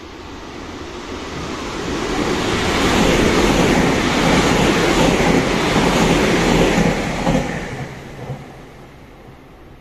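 Nankai 7100 series electric multiple-unit train passing through the station at speed without stopping. The rumble of its wheels on the rails builds as it approaches, is loudest for about four seconds as the cars go by, and then fades as it leaves.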